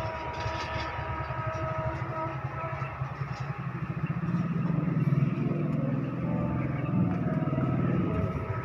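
Fiat tractor's diesel engine running with a rapid, even low pulsing, getting louder about four seconds in.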